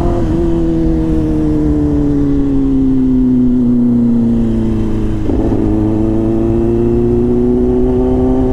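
Kawasaki ZX-10R's inline-four engine pulling in second gear, its revs sinking slowly for about five seconds. Then, after a brief rough patch a little past halfway, the revs climb steadily again.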